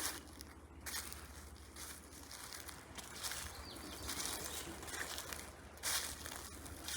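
Footsteps crunching and rustling through dry fallen leaves on a forest path, irregular, with a louder crunch about six seconds in.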